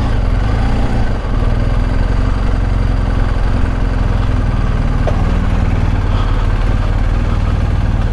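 BMW R1250 GS Adventure's boxer-twin engine idling steadily.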